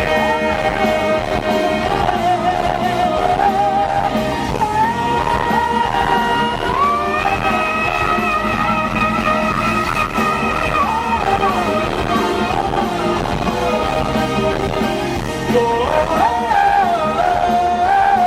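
Live pop-rock band playing with singing, a long held note in the middle.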